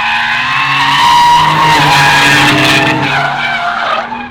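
Tyres squealing as a Brabus 820 Porsche 911 Turbo S drifts, a wavering high squeal over the engine's lower drone. It cuts off suddenly near the end.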